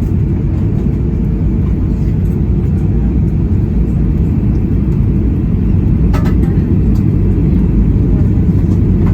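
Steady low roar of cabin noise inside a Boeing 737-800 in flight, from its engines and the airflow over the fuselage. A brief faint clatter comes about six seconds in.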